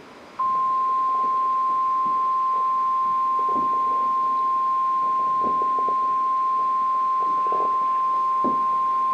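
NOAA Weather Radio warning alarm tone: one steady, loud, high beep that starts about half a second in and holds for about nine seconds. It signals that a warning broadcast follows, here a new severe thunderstorm warning.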